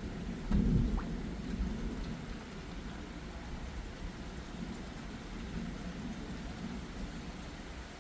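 Distant thunder rumbling, loudest about half a second in and then dying away, over steady light rain.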